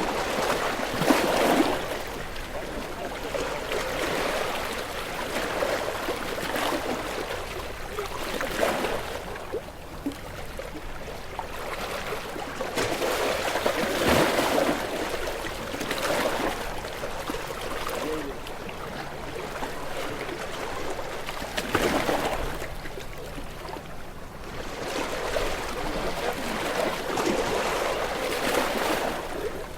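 Gentle sea waves washing onto a shore, a surge of water coming in every few seconds, about seven over half a minute.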